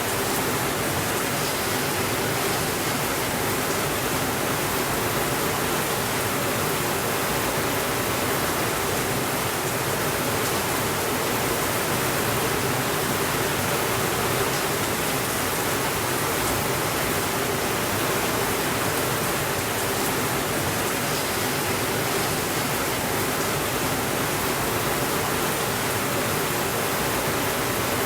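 Steady rainfall, an even hiss that never changes in level.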